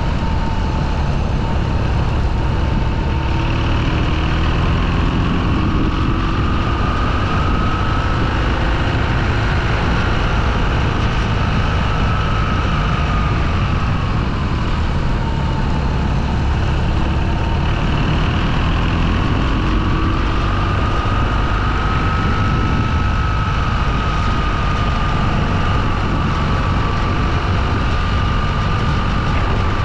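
Motorcycle riding along, its engine running with a whine that slowly rises and falls in pitch as the speed changes, over a steady low rumble.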